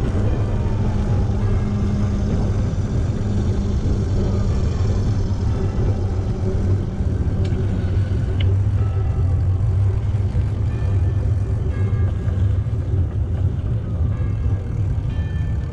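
Steady low rumble of wind and road noise on a camera riding along on a bicycle, with faint music underneath.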